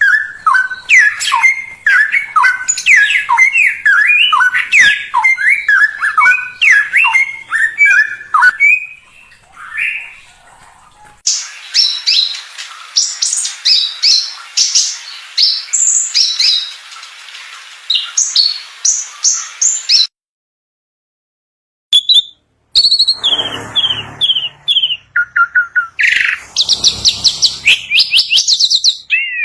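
Songbirds singing: a run of quick, sweeping whistled notes, then an abrupt change about eleven seconds in to faster, higher chirping phrases. It cuts off suddenly for about two seconds near two-thirds through, and different short whistles and chattering follow, as if separate recordings are spliced together.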